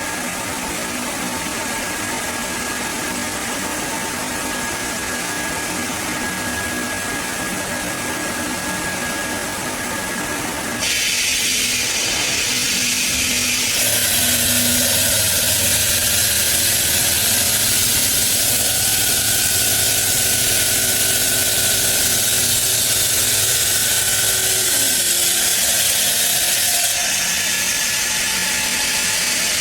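Steady running noise of stone-processing machinery, with faint whining tones over a hiss. The sound changes abruptly about a third of the way in, again shortly after, and near the end.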